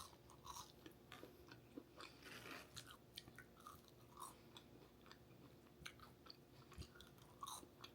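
A person chewing food close to the microphone: faint, irregular mouth clicks and smacks.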